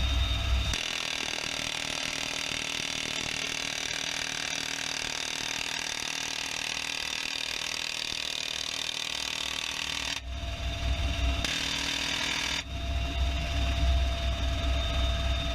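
M134 minigun firing, a rapid low buzzing: a short burst right at the start, another about ten seconds in, then a longer burst over the last few seconds after a brief pause with a hiss. Between bursts, a steady aircraft engine whine with fixed tones.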